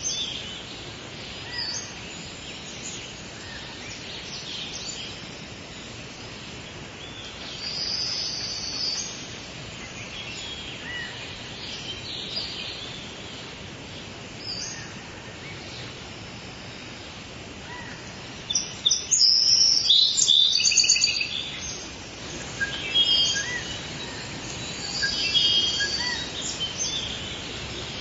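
Forest ambience: several birds chirping and singing over a steady background hiss. About two-thirds of the way through there is a louder burst of rapid, repeated chirps.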